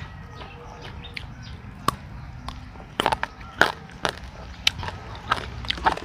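Someone chewing food close to the microphone, with irregular crisp crunches and mouth clicks that come thicker in the second half. Faint bird chirps sound behind.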